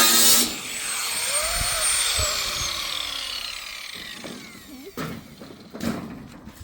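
A small electric power tool buzzing, then switched off about half a second in, its whine falling as it winds down. Two sharp knocks near the end.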